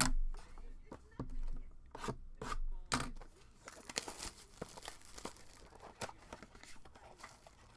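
Trading-card packaging being torn open and handled: a few sharp knocks and clicks, then a stretch of tearing and rustling of paper and plastic wrap that dies down near the end.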